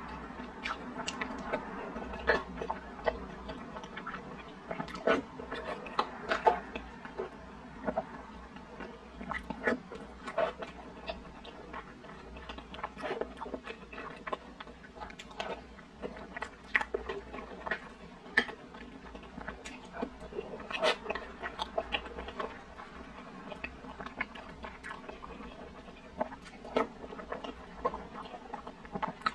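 Close-up mouth sounds of eating soft glutinous rice in brown sugar syrup: wet chewing and lip smacks, with many short sharp clicks coming irregularly.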